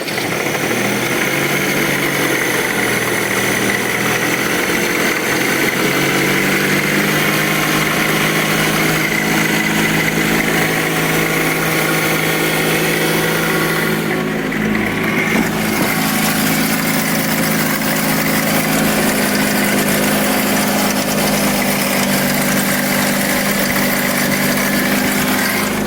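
Honda CR-V's two-litre K20 inline-four engine idling steadily just after starting, with a knocking rattle from the front of the engine. The mechanic puts the rattle down to a chain, most likely the oil pump drive chain.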